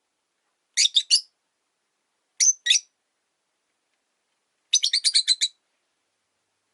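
Rosy-faced lovebirds chirping: short, sharp, high calls in clusters, two or three together about a second in and again midway, then a quick run of about seven near the end.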